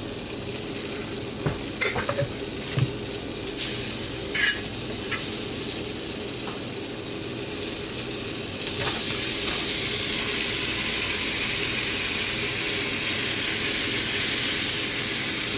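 Seasoned shrimp frying in a hot pan: a few light knocks of a utensil against the pan, then sizzling that starts about four seconds in and grows louder about nine seconds in as the shrimp are stirred.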